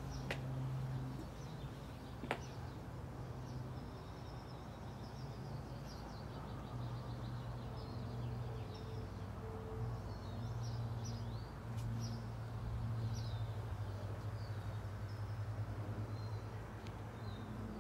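Small birds chirping in many short, high calls over a steady low mechanical hum. A few sharp clicks come in the first couple of seconds and one about twelve seconds in.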